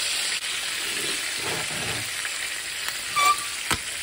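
Chicken and frozen peas sizzling steadily in hot oil in a frying pan, with a few sharp pops about three seconds in as the frozen peas spit in the oil.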